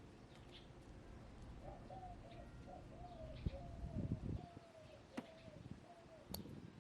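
A hen giving a run of about eight short, evenly spaced, mid-pitched calls, with a brief rustle in the middle and two sharp clicks near the end.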